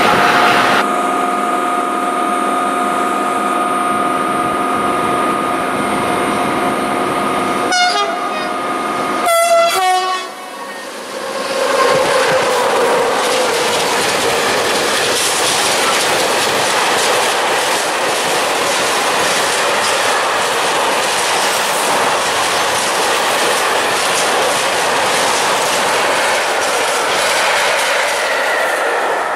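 Freight train passing close: the locomotive approaches with a steady pitched hum, sounds its horn in two short blasts about eight and nine seconds in, then a long rake of tank wagons clatters by, wheels knocking rhythmically over the rail joints.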